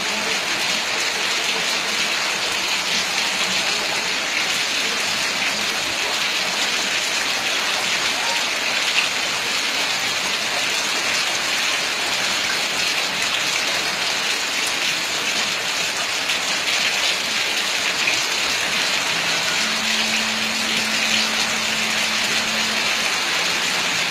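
Heavy tropical downpour: rain falling hard and steadily on the ground and puddles, a constant even hiss.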